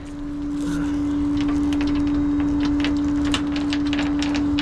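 Tow truck's hydraulic system whining at one steady pitch, coming on at the start, over the truck's idling engine, with a few light metallic clicks from the winch gear.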